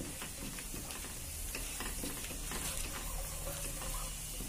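Cashews and raisins sizzling as they fry in hot ghee in a nonstick kadai, with steady hissing and a spatula scraping and tapping lightly against the pan as they are stirred.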